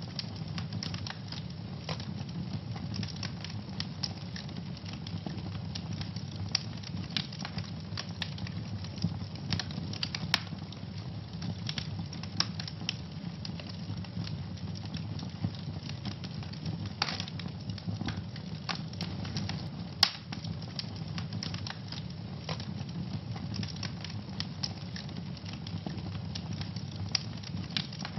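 Wood fire burning in a fireplace: a steady low rumble of flames with constant irregular crackling and snapping, a few sharper pops standing out now and then.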